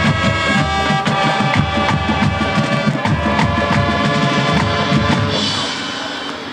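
High school marching band playing, with brass holding sustained chords over a steady drum beat. The band cuts off about five seconds in.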